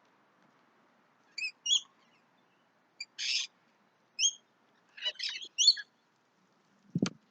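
Birds chirping and calling in short, high bursts, with a harsher screechy call about three seconds in and a quick run of calls around five seconds. A dull thump near the end.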